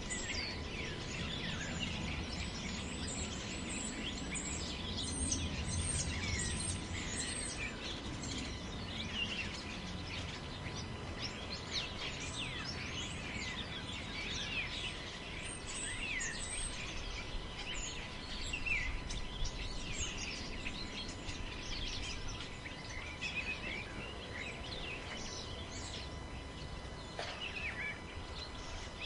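Wind in a forest, a low rumbling rush, with many small birds chirping and calling throughout. A thin steady tone runs faintly under it.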